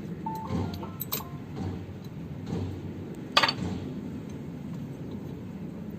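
A low steady rumble with a few light clicks, and one sharp metallic clink about three and a half seconds in.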